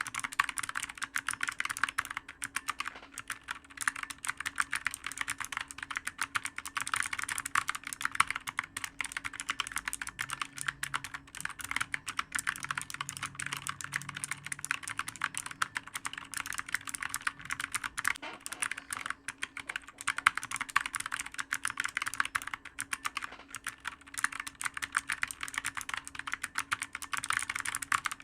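Fast continuous typing on a clicky computer keyboard: a dense, uneven stream of key clicks, with a faint steady hum beneath.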